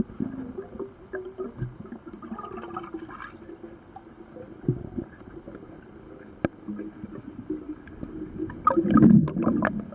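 Muffled water noise, gurgling and sloshing, with a few scattered clicks and a louder burst of splashing near the end.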